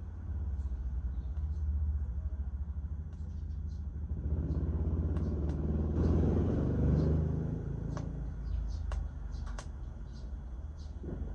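Wood fire crackling with scattered sharp pops over a steady low rumble, which swells for a few seconds in the middle and then eases.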